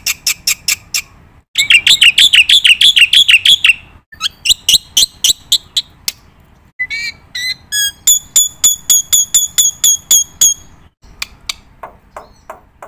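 Bird song: a series of different phrases, each a rapid run of repeated high notes, with short breaks between phrases.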